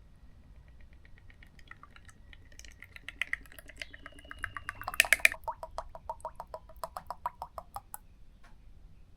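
A run of rapid, even clicks, about six a second, loudest about halfway through.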